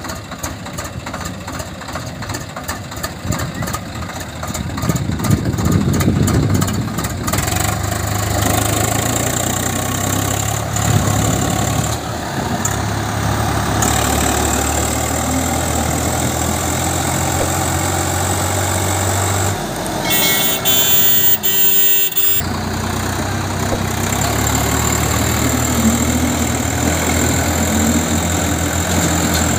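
Swaraj 744 XT tractor's diesel engine running steadily and loud, with a brief break about twenty seconds in where a different, hissy sound takes over for a few seconds.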